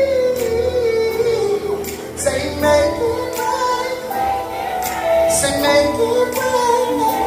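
Live R&B band music, with a high vocal line sung without clear words, sliding and holding notes over drums with a steady cymbal beat.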